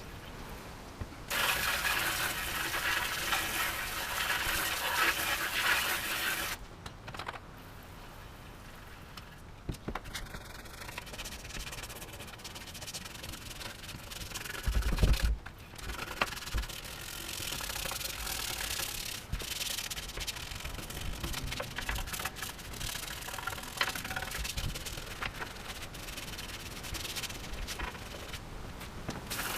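Hand scrubbing of a cast aluminium bash plate with degreaser and water, a dense rubbing noise that is loudest for the first few seconds and then goes on more lightly, with a single dull thump about halfway through.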